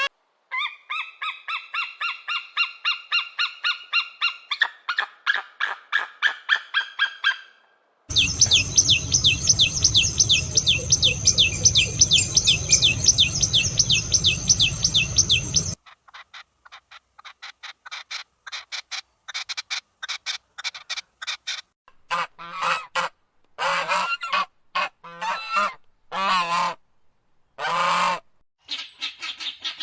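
A sequence of recorded calls from several different birds: a run of rapid repeated pitched notes, then after a short gap a fast high trill over a low rumble, then quick faint chirps, and in the last third a series of loud, separate calls of varying length.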